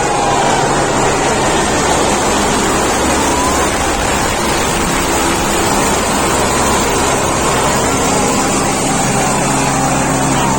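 Helicopter rotor and turbine noise at close range, loud and steady, with a low steady hum under it.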